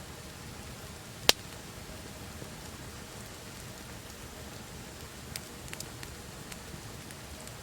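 Wood campfire crackling: a steady soft hiss with scattered pops, one sharp loud pop about a second in and a few smaller ones between five and six and a half seconds.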